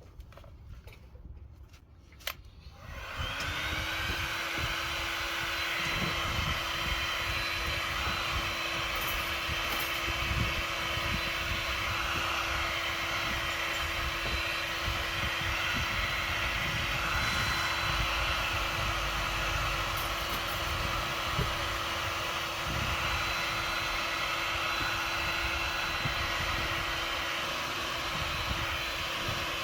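Electric heat gun switched on with a click about two seconds in, spinning up and then running steadily: a rush of blown air over a constant motor hum and high whine, heating the dented plastic bumper.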